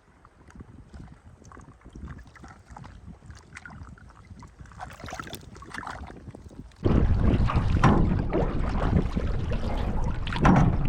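Canoe on open river water: faint water sounds and small clicks, then about seven seconds in, a sudden loud, low rumble of wind on the microphone, with stronger gusts near the end.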